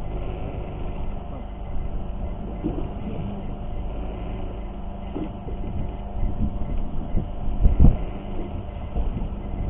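A boat's engine running steadily, with a heavy low thump near the end.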